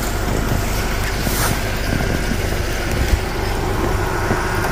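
Car engine idling steadily, with a few faint knocks.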